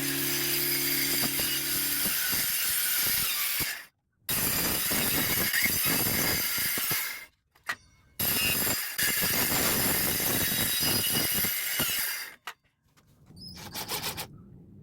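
Rasping woodworking noise of a tool working wood, in three abrupt edited stretches with short silent gaps between them, quieter near the end.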